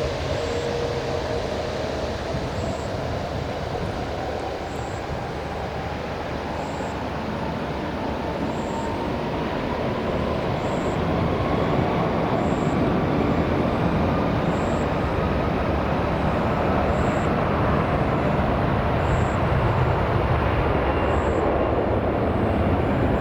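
Jet airliner engines: a broad roar that grows slowly louder, with a whine that climbs steadily in pitch.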